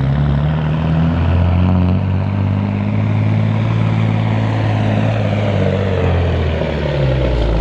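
1990 Peterbilt 379 semi truck's diesel engine under heavy load, pulling a weight-transfer sled; a loud, steady run that eases off right at the end.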